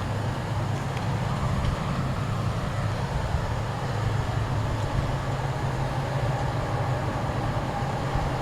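Diesel locomotives of a CSX freight train running, a steady low rumble.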